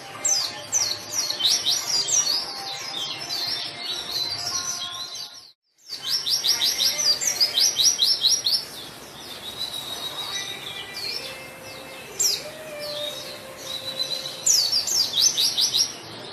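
White-eye (pleci) singing in fast, busy runs of short high chirps and trills. The song breaks off into silence for a moment about five and a half seconds in, then resumes.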